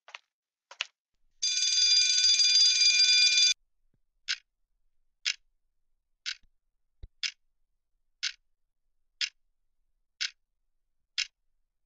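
An alarm rings steadily for about two seconds, then a clock ticks about once a second.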